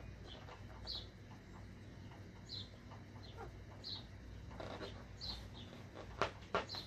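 A bird chirping with one short high call about every second and a half. A few sharp taps sound near the end.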